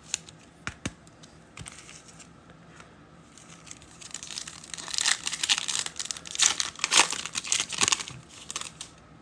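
A wrapper on a pack of football trading cards being torn open and crinkled. A few light clicks come first, then a dense stretch of crinkling in the second half.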